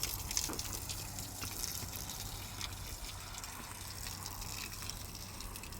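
Water pouring and splashing: a steady rush with scattered small splashes and clicks.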